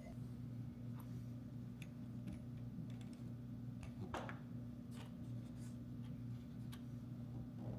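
Scattered light clicks and taps from small objects being handled, one sharper tap about four seconds in, over a steady low electrical hum.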